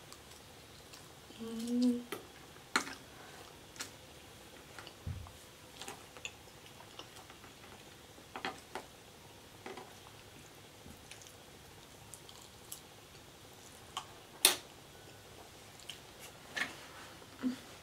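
Close-miked eating: chewing loaded fries, with scattered wet mouth clicks and smacks and the light taps of a plastic fork. A brief low hum from the eater comes about two seconds in, and the sharpest click falls near the end.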